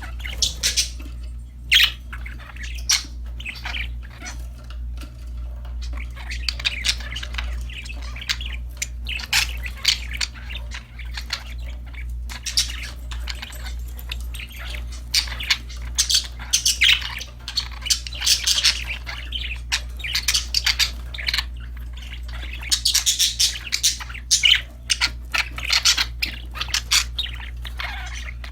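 Budgerigars chirping and chattering: a dense, irregular run of short, sharp chirps and squawks, busier in stretches, over a steady low hum.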